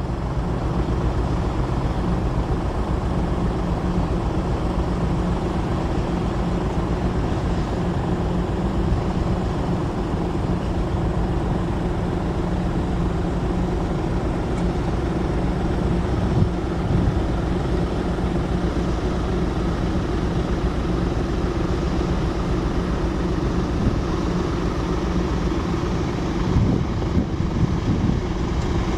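Heavy engines running steadily: an even low drone with a constant hum, and a few faint knocks in the second half.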